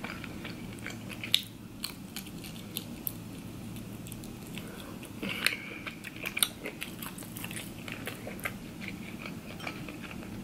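Close-miked chewing of seafood, with wet mouth smacks and scattered sharp clicks; the loudest clicks come about a second and a half in and again around six and a half seconds. A steady low hum runs underneath.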